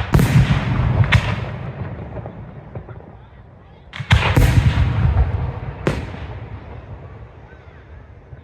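Aerial firework shells bursting in a professional display: a cluster of sharp bangs at the start and another about four seconds in, with a single bang near six seconds, each followed by a long rolling rumble that fades away.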